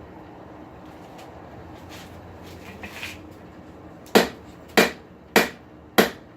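A blacksmith's hammer striking on an anvil: four evenly paced blows, a little over half a second apart, each with a short metallic ring, starting about four seconds in after a steady low hum.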